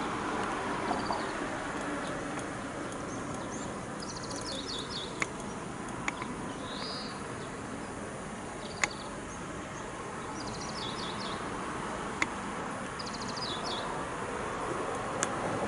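A small bird singing short, high-pitched chirping phrases, repeated every two seconds or so, over a steady outdoor background hiss; a few sharp clicks break in now and then.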